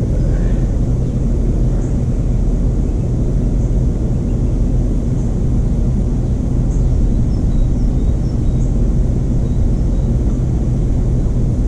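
Stump grinder's 13 HP Honda single-cylinder engine running steadily at working speed, with a constant low hum.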